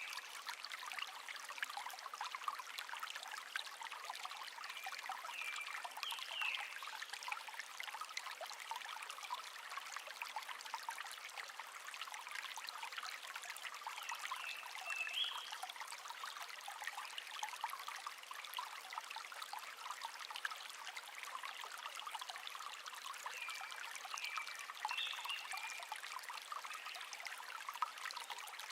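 Small stream trickling and babbling steadily over stones. A bird gives short chirping phrases three times, about nine seconds apart.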